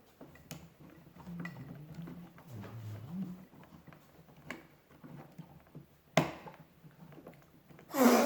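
Scattered small clicks and knocks of a plastic toy being handled and taken apart with a screwdriver, with one sharper knock about six seconds in and a louder burst of handling noise near the end.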